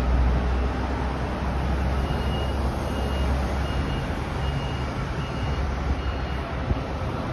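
An electric multiple-unit commuter train approaching and pulling into the station platform, a low rumble that eases off near the end. Over it, a high electronic beep repeats six times, about every 0.7 seconds, from about two to six seconds in.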